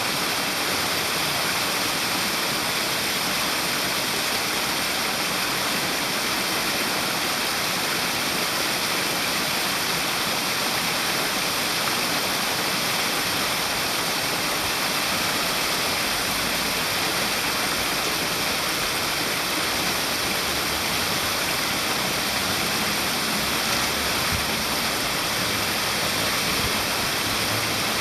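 Steady rushing of flowing water, like a stream or weir.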